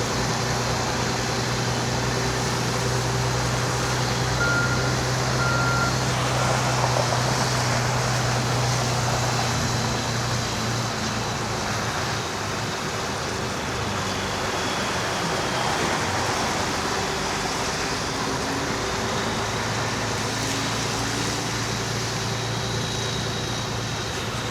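Road and traffic noise while riding an electric scooter in snowy streets: a steady hiss with a low engine drone from a slow truck just ahead, which fades about halfway through and returns near the end. Two short high beeps come about five seconds in.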